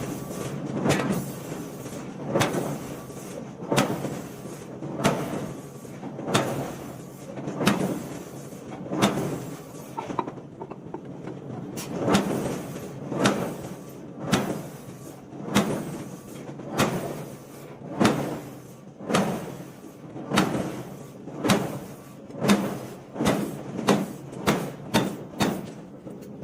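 Heavy hydraulic forging hammer striking hot steel in a steady run of blows, about one every second and a quarter, coming faster, about two a second, near the end.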